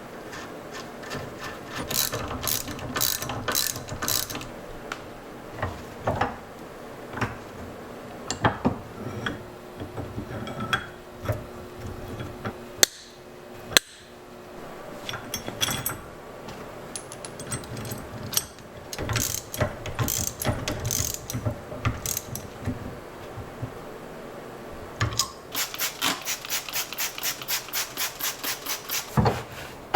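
Socket ratchet wrench clicking in short runs as bolts are turned, with scattered knocks of tools and parts between. Near the end comes a longer, steady run of about five clicks a second.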